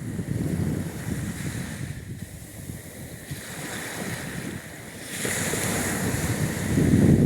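Black Sea surf washing onto the shore, with a louder wave breaking and hissing about five seconds in. Wind buffets the microphone, with a low rumble near the end.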